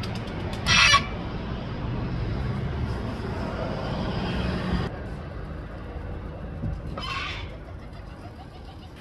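Two short, loud bird calls about six seconds apart, over a steady low rumble.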